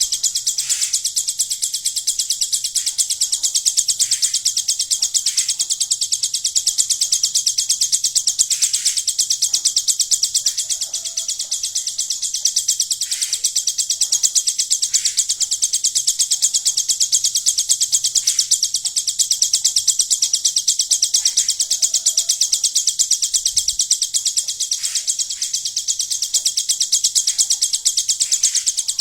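Ciblek gunung (hill prinia) singing a very fast, unbroken, high-pitched ticking trill, the insect-like 'belalang emas' song material the bird has been trained on, with short softer calls breaking in every few seconds.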